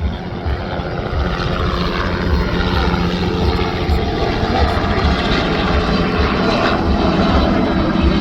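Helicopter running close by: the rotor's steady low pulsing and the turbine engine's whine, which rises in pitch and grows a little louder over the first couple of seconds.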